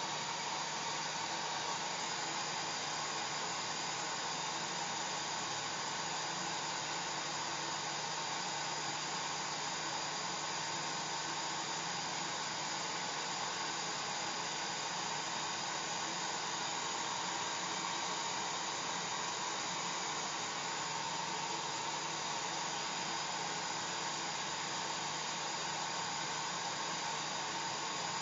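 Hair dryer running steadily: an even rush of blown air with a faint steady hum beneath it.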